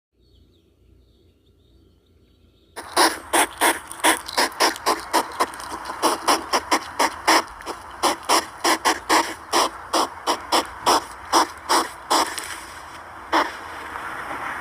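Hedgehog making rapid clicking sounds while foraging, about three a second. They start about three seconds in, stop near the end with one last click, and give way to a steady hiss.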